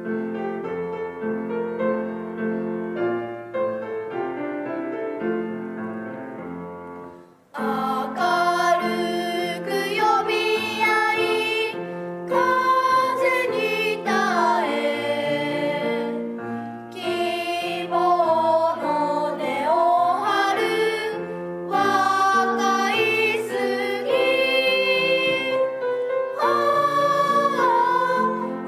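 A song with piano: a piano introduction, then voices singing over the piano from about seven seconds in.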